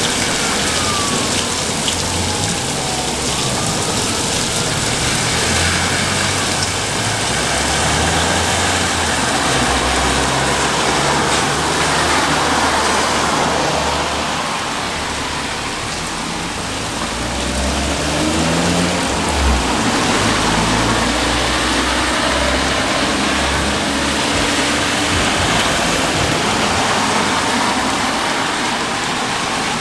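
Steady rain falling, with a low, shifting rumble underneath.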